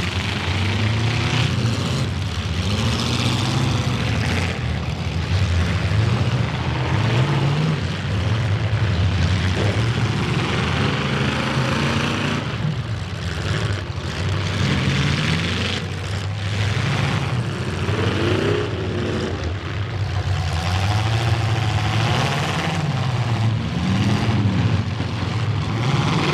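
Demolition derby cars' engines revving hard and dropping back, over and over, several at once, with a few sudden bangs of cars colliding about halfway through.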